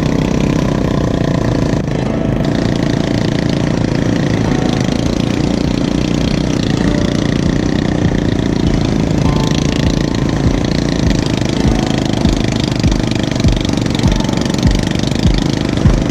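An ATV engine running steadily. In the second half a regular low thump, about two a second, grows louder.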